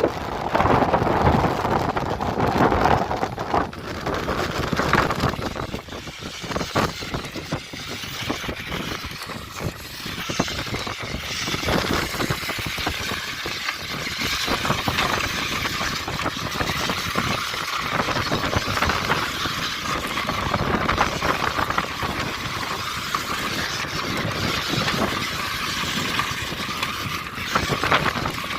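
Radio-controlled monster truck driving, its motor giving a steady whine from about twelve seconds in over rough rattling and rumbling from the wheels and chassis.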